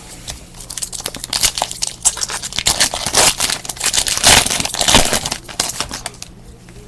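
Trading-card pack wrappers crinkling and tearing open, a dense run of irregular crackles that is busiest in the middle.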